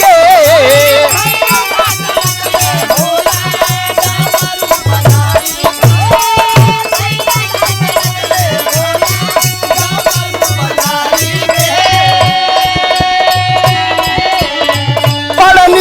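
Instrumental interlude of Bhojpuri birha folk music: a sustained melody line over a steady, even drum beat, with rattling percussion keeping time.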